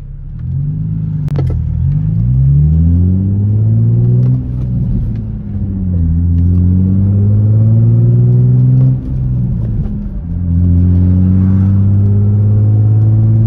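Infiniti G35's VQ35 V6 engine accelerating through the gears of its six-speed manual, heard from inside the cabin. The engine note climbs, drops back at each upshift about three times, then holds steady near the end.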